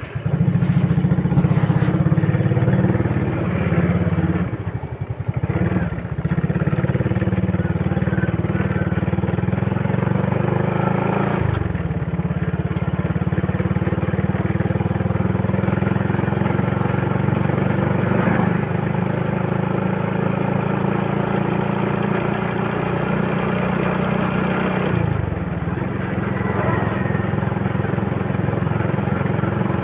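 Honda Supra motorcycle's single-cylinder four-stroke engine pulling away and running along the road, its note rising and falling with the throttle. The note falls sharply twice, about eleven and twenty-five seconds in.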